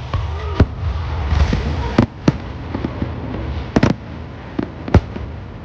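Fireworks going off: about six sharp bangs at irregular spacing, two of them close together near the middle, over a steady low rumble.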